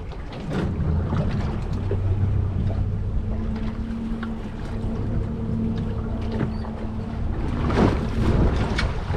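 Boat engine running steadily at low speed, a low even hum, with wind buffeting the microphone. The hum fades near the end into louder, rougher wind and water noise.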